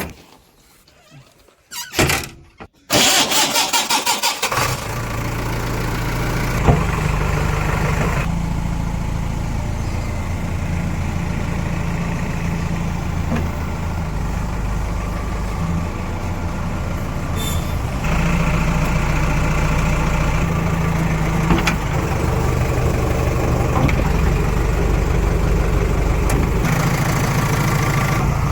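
A diesel vehicle engine is cranked about three seconds in, with fast pulsing from the starter, and catches within a couple of seconds. It then runs steadily, its pitch shifting a few times.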